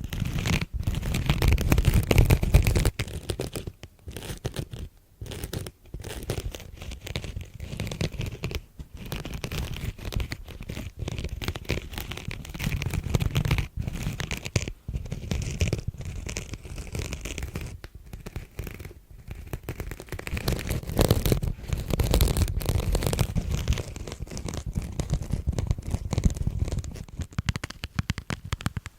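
Close-up scratching and crinkling, a dense run of small crackles and scrapes that swells louder near the start and again about three-quarters of the way through.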